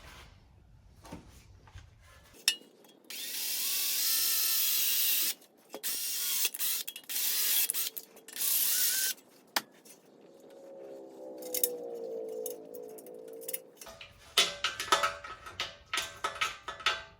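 Power drill boring the second bolt hole through the shovel's socket and wooden handle: one run of about two seconds, then a shorter run a few seconds later. Clicks and rattles of handling follow near the end.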